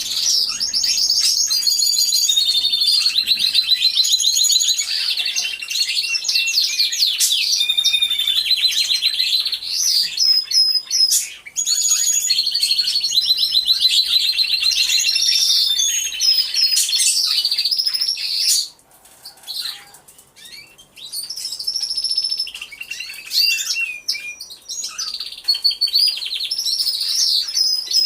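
Several domestic canaries singing at once, with fast rolling trills and warbled phrases overlapping. The chorus thins to a brief lull about two-thirds of the way through, then picks up again.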